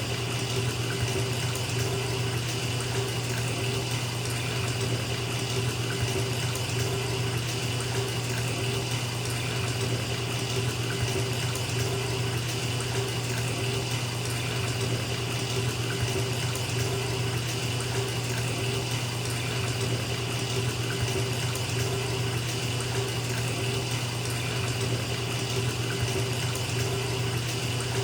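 Bathtub tap running steadily, water pouring into a filling tub.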